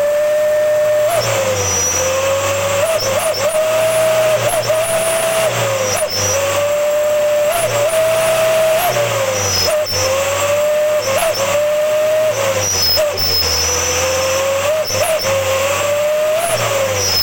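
Engine running through a 'srigala' (wolf) whistle exhaust. It gives a steady whistling tone that slowly rises and dips in pitch, again and again, while the low engine note steps up and down with the revs.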